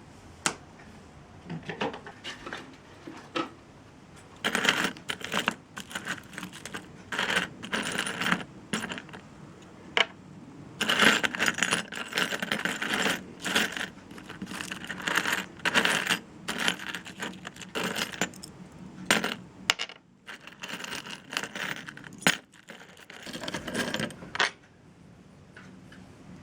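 Small hard objects clinking and clattering as they are handled, in repeated short spells of clicks with brief pauses between.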